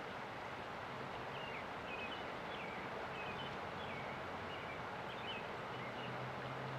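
A small songbird chirping in a quick series of short, high, slurred notes over the steady rush of river water. A low hum grows louder near the end.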